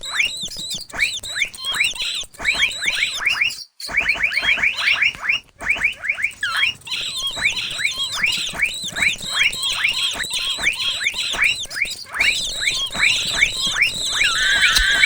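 Mouse squeak sound effect: dense runs of short, high squeaks, each falling in pitch, several a second, over a thin steady high whine. Two brief silent gaps come about four and five and a half seconds in.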